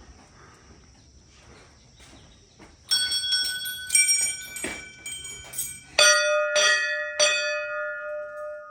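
Hand-rung Hindu temple bells. About three seconds in, a higher-pitched bell is struck several times. Then a deeper bell is struck three times in quick succession and left ringing on.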